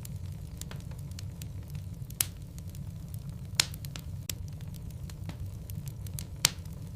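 Wood logs burning in a fireplace, crackling with scattered small pops and three sharp louder pops, about two, three and a half, and six and a half seconds in, over a low steady rumble of the flames.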